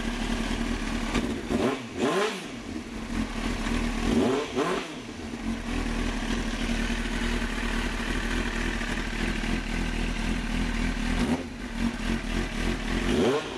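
2001 Kawasaki Ninja ZX-9R's inline-four engine running just after a cold start, idling steadily. The revs swing up and back twice, about 2 and 4.5 seconds in, and again at the end.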